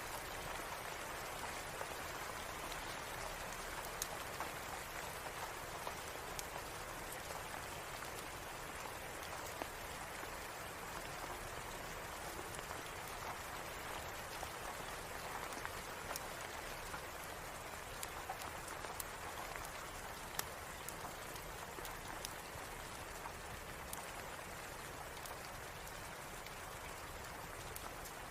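Steady rain falling, an even hiss of drops, with scattered small sharp clicks throughout.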